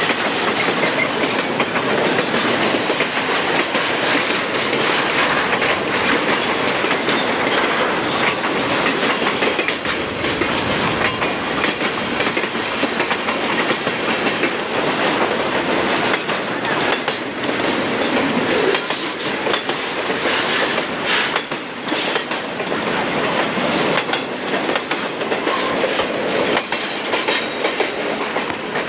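CSX intermodal freight train of trailers on flatcars rolling past close by: a steady rumble of steel wheels with clickety-clack on the rails. A brief sharp high-pitched noise comes about three-quarters of the way through.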